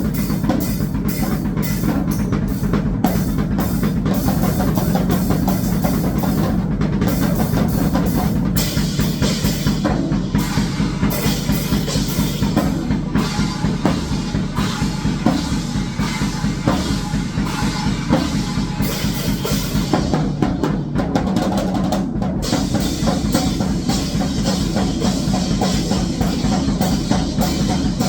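Drum kit played in a fast grindcore style: a dense, unbroken stream of rapid kick and snare strokes under steady cymbal wash.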